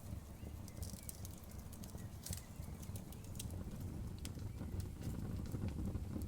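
Outdoor bonfire crackling: irregular sharp snaps and pops over a low steady rumble of flames, with a small burst of pops about two seconds in.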